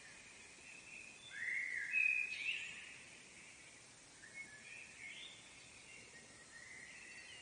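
A songbird singing: a loud warbling phrase about a second and a half in, then softer phrases around the middle and near the end, over a faint steady hiss of outdoor background noise.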